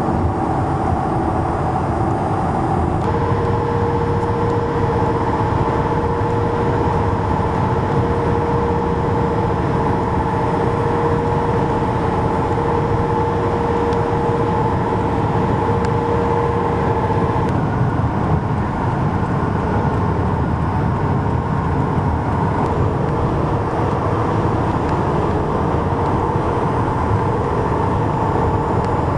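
Continuous multi-lane highway traffic noise from transport trucks and cars, a steady rumble and tyre hiss with a steady hum running through it that shifts in pitch about 3 s in and again about 17 s in.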